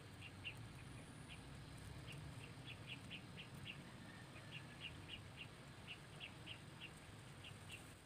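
Faint bird calls: a long series of short, high chirps, about two or three a second in uneven runs.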